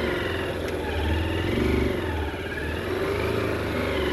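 Motorcycle engine running under load, its revs rising and falling.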